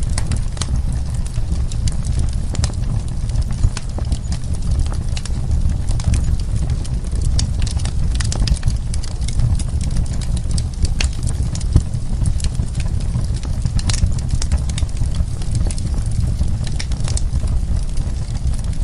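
Wood fire burning, with frequent irregular crackles and sharp pops over a steady low rumble of the flames.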